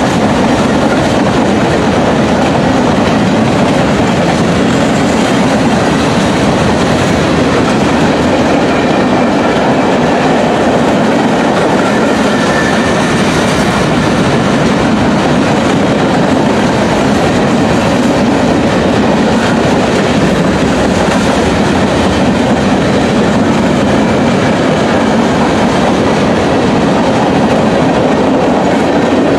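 Train cars rolling past on the rails: a steady, continuous noise of wheels on track that holds at one level throughout.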